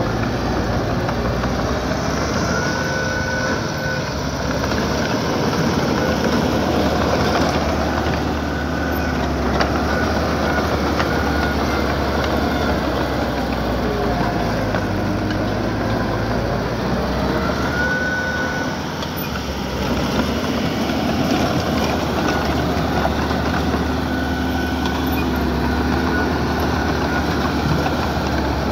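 Diesel heavy-equipment engine running steadily, with a few brief high squeaks now and then.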